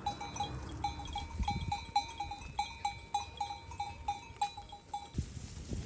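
A small bell clinking over and over at the same pitch, several uneven strikes a second, that stops about five seconds in. It sounds like a livestock bell on a moving animal.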